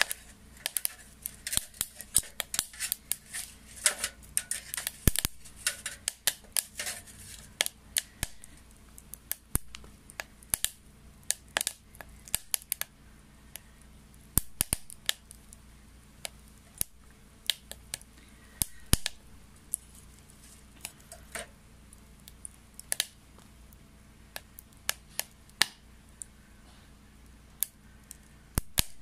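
Wet wood crackling and popping as it burns in a homemade secondary-combustion stove: irregular sharp snaps, thick and fast for the first dozen seconds, then sparser, single pops.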